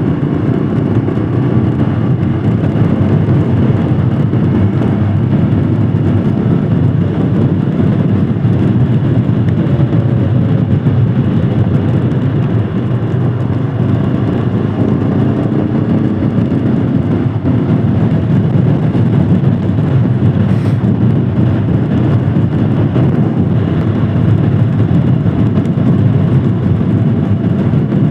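Royal Enfield Himalayan Scram 411's single-cylinder engine running at a steady ride, mixed with heavy rushing noise. One short click comes about two-thirds of the way through.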